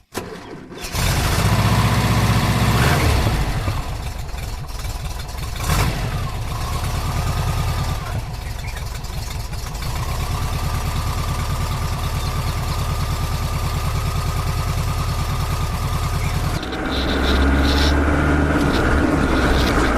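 An engine running with a fast, even throb, the pitch and loudness shifting a few times, louder again for the last few seconds.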